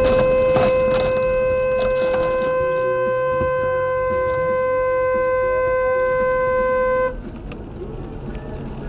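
Car horn held down in one long, steady blast of about seven seconds that cuts off suddenly, over road and engine noise.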